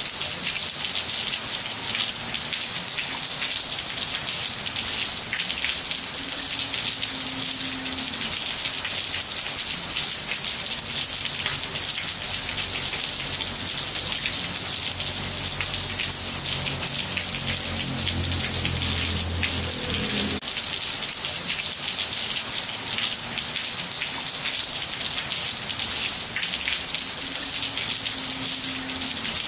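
Steady rain falling on a ceramic tiled floor: a dense, even patter of drops splashing on the wet tiles. A faint low hum sits underneath and cuts off suddenly about twenty seconds in.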